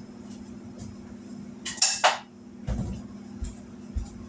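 Dishes clinking as a bowl is taken out and handled, with one loud clatter about two seconds in and a duller knock just after.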